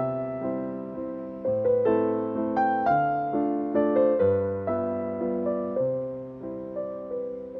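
Slow, gentle piano music: sustained chords under a simple melody, each note struck and left to fade, with the harmony changing about every second or two.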